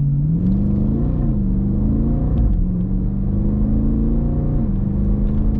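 SRT8's HEMI V8 accelerating hard from a standstill in track mode, heard from inside the cabin. The engine note climbs and drops back at three quick automatic upshifts, about one, two and a half, and four and a half seconds in.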